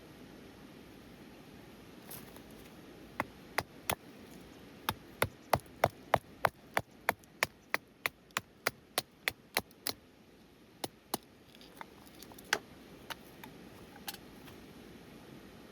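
Chopping on wood: a few sharp knocks, then an even run of about three strikes a second for some five seconds, then a few scattered knocks.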